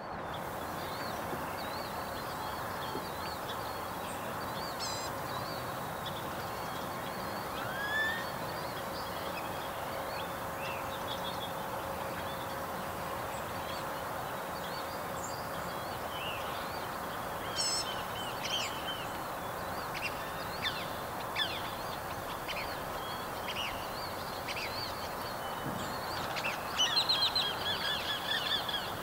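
Birds calling and chirping over a steady rushing background noise, with a quick run of chirps near the end.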